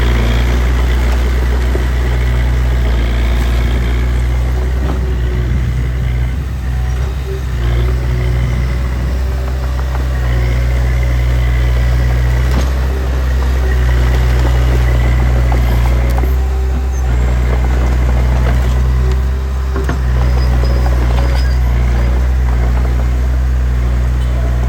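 Small crawler bulldozer's diesel engine running steadily under load, with a deep, even hum and slight dips in level a couple of times.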